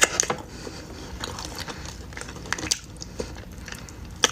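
Close-miked eating of oxtail: wet biting, chewing and lip-smacking noises, with a sharp click right at the start and another near the end.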